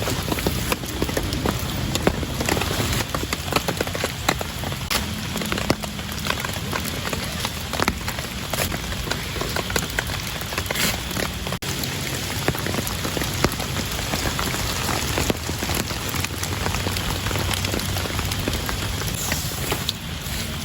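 Steady rain falling, with many individual drops striking close by in a dense patter of sharp ticks.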